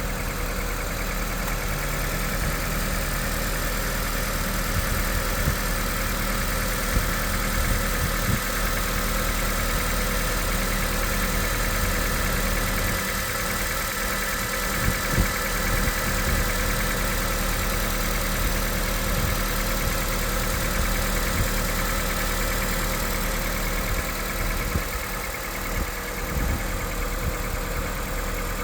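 2006 Honda CR-V engine running steadily without revving, with a few brief small ticks.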